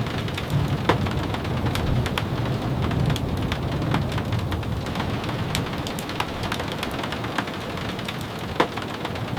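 Steady rain falling, with a low rumble underneath and scattered sharp ticks and clicks.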